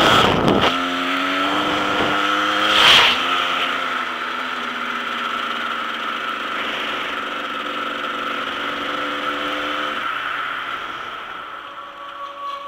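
Dirt bike engine running under steady throttle, with two short gusts of wind noise on the microphone near the start and about three seconds in. The engine note drops and fades near the end.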